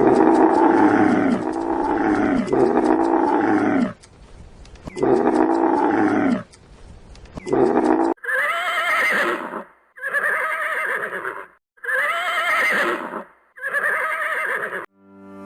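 A series of animal calls: about five lower calls that fall in pitch, then four high, quavering whinnies of a horse, each about a second and a half long.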